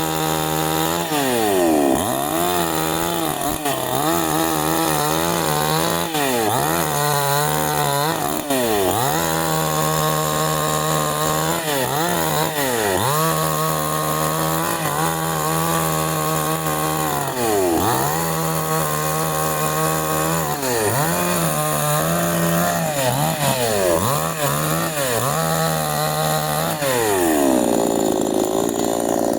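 Canfly 5800 two-stroke chainsaw running at high revs while cutting wood, its engine pitch dipping and climbing back again and again as the chain loads up and frees. Near the end the revs fall off to a lower, steadier note.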